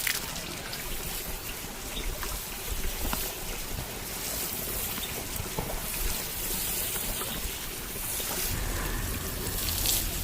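Hot oil sizzling steadily, with scattered small pops and crackles.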